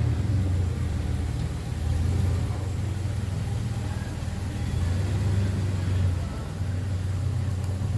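Car engine running at low speed nearby: a steady low rumble that swells and eases slightly.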